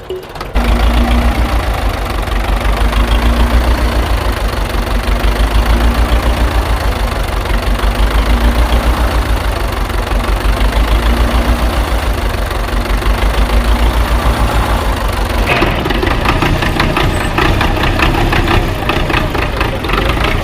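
An engine running steadily with a fast, even low pulse. About three-quarters of the way through, its sound changes, with more rapid rattling higher up.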